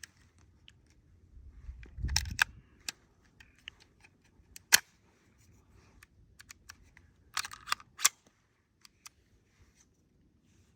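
Scattered sharp metallic clicks and clacks from an FN Five-seveN pistol being handled to clear a failure to eject, which the shooter puts down to an overloaded magazine. There is a short cluster about two seconds in, the sharpest single click near the middle, and another cluster about three seconds later. No shots are fired.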